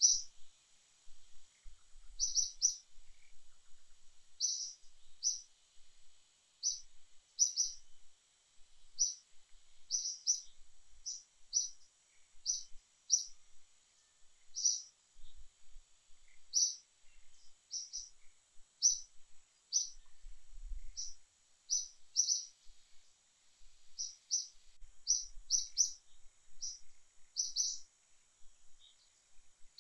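A bird chirping: short, high chirps repeated about once a second, many in quick pairs, over a faint steady high hiss.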